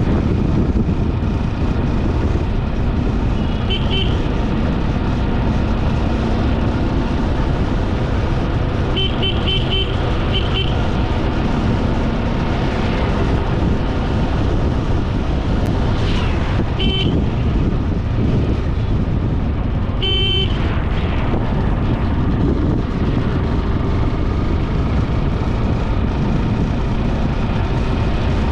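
Steady road and wind noise from a moving vehicle on a ride, broken by short beeping horn toots about four times: a few seconds in, twice around ten seconds, and around seventeen and twenty seconds.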